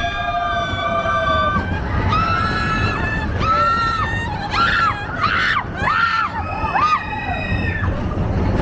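Roller coaster riders screaming over the low rumble of the coaster train: several long, overlapping high screams, with a run of shorter rising-and-falling screams in the middle.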